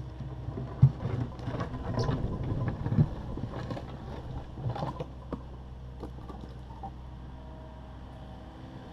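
Takeuchi TB260 excavator's diesel engine running steadily while the bucket knocks and scrapes against broken concrete, with a sharp bang about a second in and another about three seconds in. The clatter dies away after about five seconds, leaving the engine alone.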